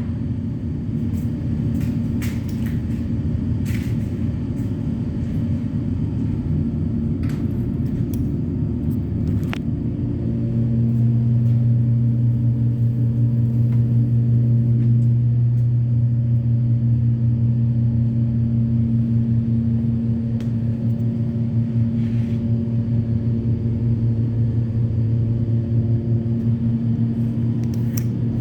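Steady low machine hum that becomes louder and more even about ten seconds in, with a few short hisses in the first ten seconds.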